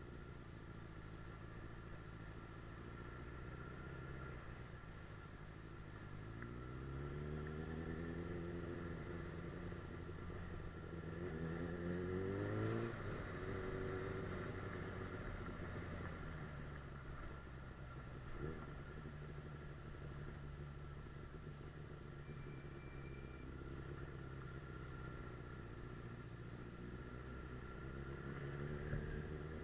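Suzuki GSF600 Bandit's inline-four engine on the move, its pitch rising under throttle about a quarter of the way in and again near the middle, where it drops sharply as the throttle closes or a gear changes. It then runs steadily and starts climbing again near the end.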